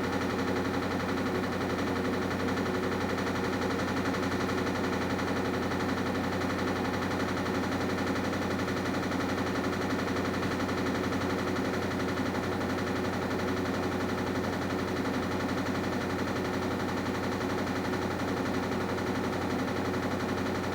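Washing machine running: a steady motor hum with a fast, even rattle.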